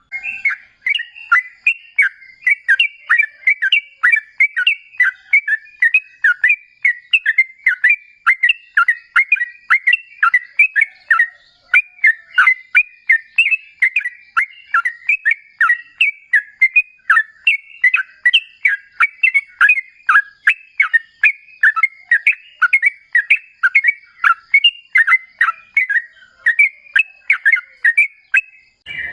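Yellow-vented bulbul (trucukan) singing a long rapid run of short, bubbly whistled notes, about three a second, without a break. This is the long, rolling 'ropel' song that keepers play to make a caged bird answer.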